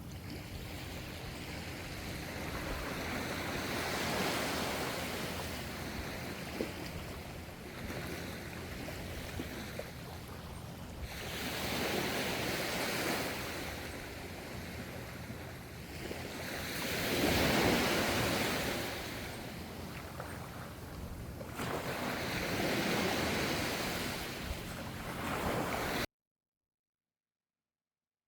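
Ocean waves washing ashore in slow surges, about four swells each lasting several seconds. The sound cuts off suddenly to silence near the end.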